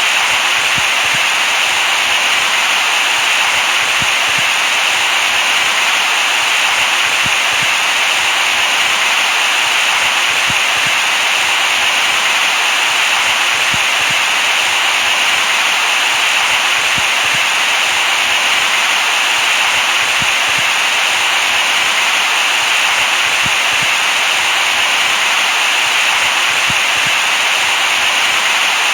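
Steady, unbroken white-noise hiss, strongest in the upper middle and with little low rumble.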